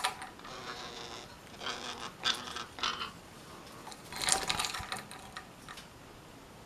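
A parakeet making a handful of short, harsh scratchy calls and clicks at irregular intervals, the loudest about four seconds in.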